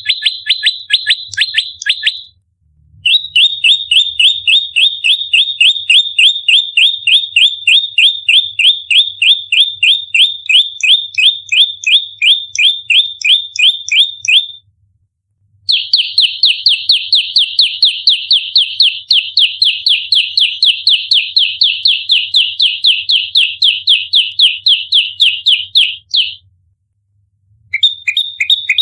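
Prenjak lumut giving its rapid-fire fighting call ('tarung nembak rapat'): long runs of sharp, high chirps repeated evenly about four to five times a second, broken by short silences of about a second, twice in the middle and once near the end.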